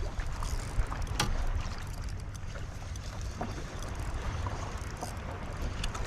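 Wind rumbling on the microphone aboard a kayak on open water, with a few light knocks and ticks, the clearest about a second in.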